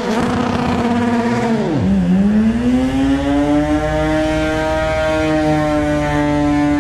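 Mazda RX-3 drag car's engine revved high and held during a burnout. The pitch dips sharply about two seconds in, then climbs back and holds at a steady high whine.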